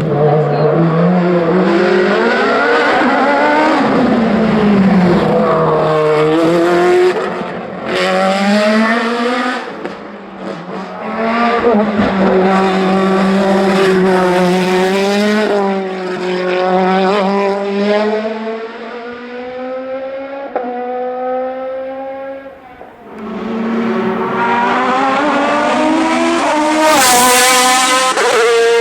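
High-revving racing-car engines at full throttle, the pitch climbing and then dropping at each quick upshift. One car fades away about three quarters of the way through, and another comes up loud near the end.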